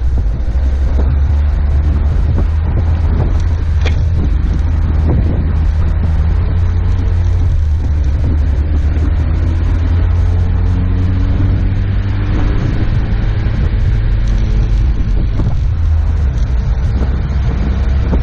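A 4x4's engine is running under way, with a heavy low rumble from the drivetrain and the tyres on a snow-packed road. The engine note climbs for a few seconds around the middle as it accelerates, with scattered small knocks and rattles.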